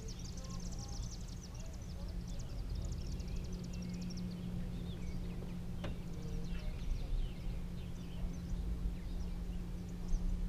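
Outdoor wildlife ambience: a fast, high chirping run that fades after about four seconds, then scattered bird chirps, over a steady low hum, with one sharp click about six seconds in.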